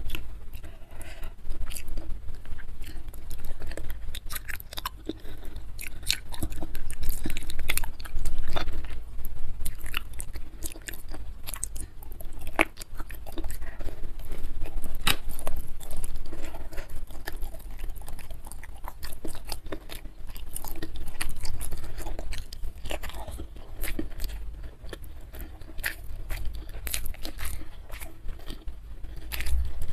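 Close-miked chewing of a meal of goat-trotter curry with raw vegetables and jengkol: wet, sticky mouth sounds with irregular sharp crunches and clicks, over a steady low hum.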